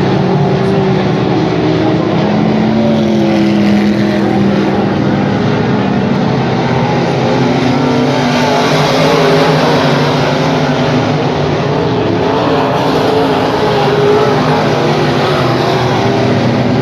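Race car engines running at racing speed, loud and continuous, their pitch rising and falling as the cars accelerate and back off.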